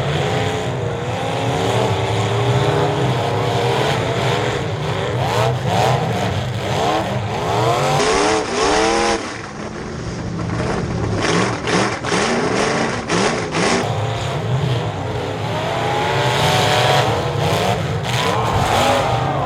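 Several race car engines revving, their pitch rising and falling over and over as the cars accelerate, lift off and pass. A quick series of sharp knocks comes about halfway through.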